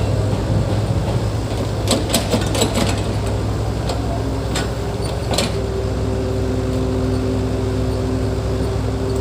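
Heavy earthmoving machine's diesel engine running steadily, with a cluster of sharp metallic clanks about two seconds in and two more single clanks a little later.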